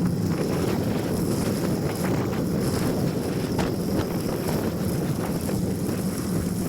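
Wind rushing over the microphone of a camera riding along on a bicycle, a steady noise with a couple of sharp ticks about halfway through.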